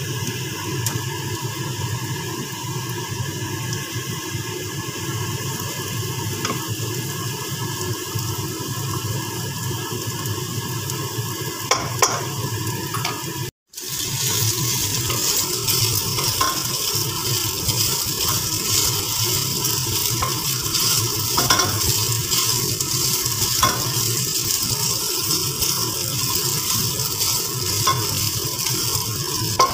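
Garlic, ginger and onion sizzling in oil in a nonstick pot while a wooden spoon stirs them. After a brief cut about halfway, sliced pork stir-fries with a brighter, hissier sizzle, the spoon now and then knocking against the pan.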